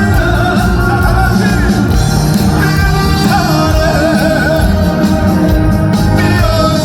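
Live trot song: a male singer's voice over amplified band accompaniment with a heavy bass, loud and unbroken.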